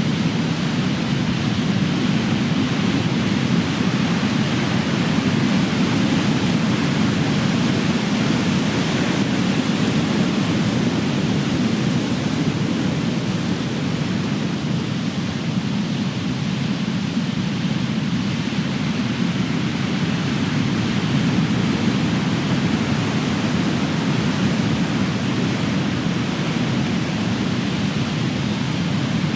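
Ocean surf: big waves breaking and washing in a continuous deep rumble that swells and eases slowly, with no single crash standing out.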